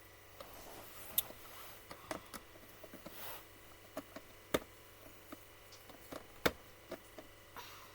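Screwdriver working a screw into an Oreck vacuum's plastic belt cover: irregular sharp clicks and short scrapes as the bit slips in a stripping screw head, with four louder clicks.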